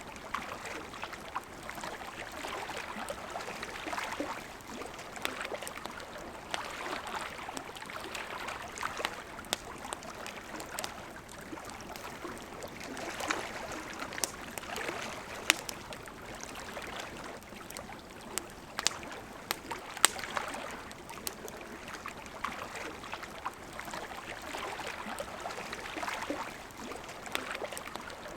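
River water running steadily, with a campfire crackling over it in sharp irregular snaps, a few of them loud.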